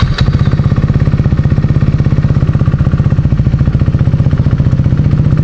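KTM RC 390's single-cylinder engine idling steadily right after it catches, with an even, fast pulsing beat.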